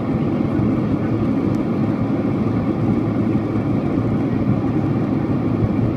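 Steady low rumble of a Boeing 767-400ER's engines and airflow heard inside the passenger cabin, even and unbroken.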